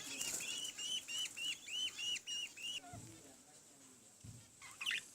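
Budgerigar chicks begging to be fed: a rapid series of short chirps, about four a second, that stops a little past halfway, then one louder call near the end.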